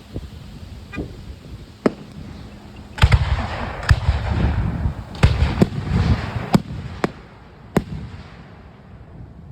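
Aerial fireworks bursting: a string of sharp bangs with rumbling echoes and crackle, densest in the middle, thinning out near the end.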